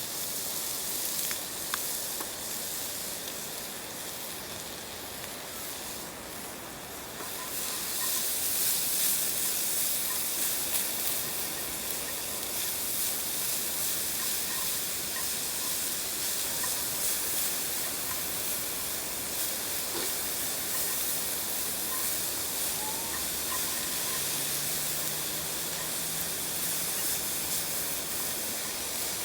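Food sizzling in a pan over a campfire: a steady frying hiss that grows louder about seven seconds in, with a few faint ticks.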